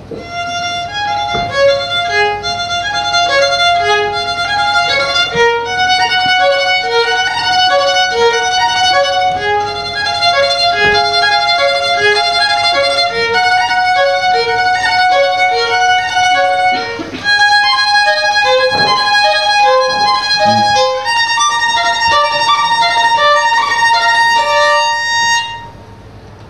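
Violin playing a passage of short notes, moving up to higher notes about two-thirds of the way through and stopping about a second before the end.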